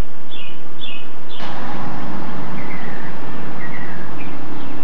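Small birds chirping in short falling notes, in little groups. A steady rushing noise sets in about a second and a half in and carries on under them.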